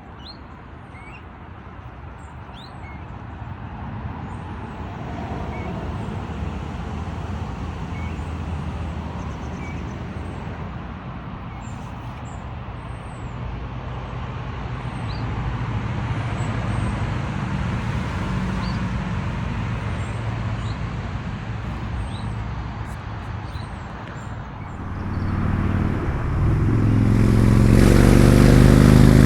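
Low rumble of a passing motor vehicle, swelling and easing, then a loud engine hum that rises about 25 seconds in and stays loud to the end. Small birds chirp throughout.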